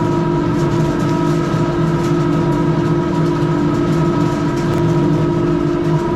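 Heavy machinery running steadily: a loud, constant mechanical drone with several steady tones in it.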